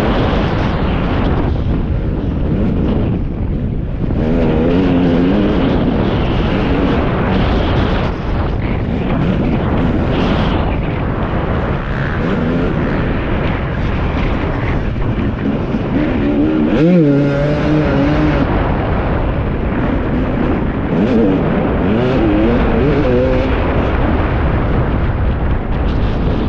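Husqvarna TC 250 motocross bike's engine heard from an onboard action camera while riding the track, its revs rising and falling continuously, with wind rush on the microphone.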